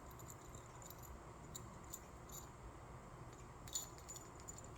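A few faint, scattered tinkles of the small bell inside a bell ball as a green-cheeked conure handles it, the clearest about three-quarters of the way through.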